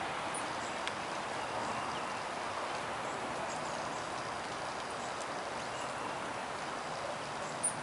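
Steady hiss of light rain, with a few faint high chirps and one sharp tick near the end.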